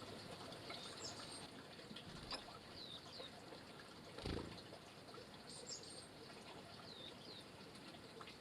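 Small wild birds giving short, high chirps scattered through, faint against a low hiss, with a soft thump about four seconds in.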